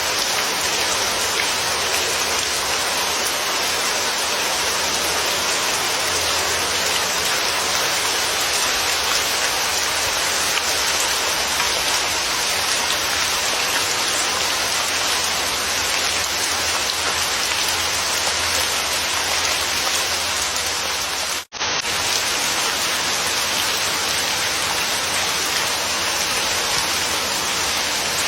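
Steady, dense rainfall hissing evenly, cutting out for an instant about three quarters of the way through and coming straight back.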